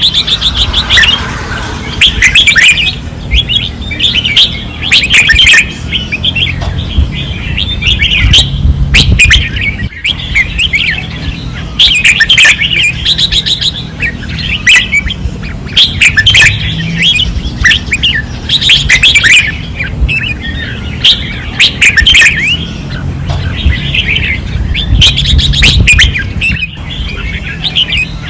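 Caged red-whiskered bulbuls singing loudly and without pause, short warbling phrases repeated every second or so, over a steady low hum.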